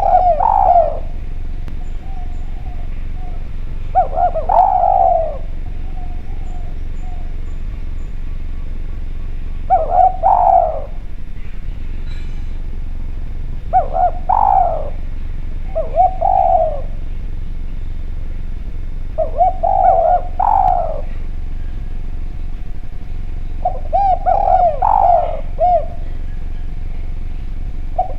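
Spotted dove (Javanese derkuku) cooing: a short phrase of several low coos that rise and fall, repeated about seven times at intervals of four to six seconds. A steady low hum lies underneath.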